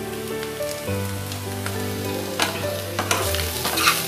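Cubed potatoes frying in a nonstick kadhai with a light sizzle. Near the end a spatula scrapes and knocks against the pan as the potatoes are stirred.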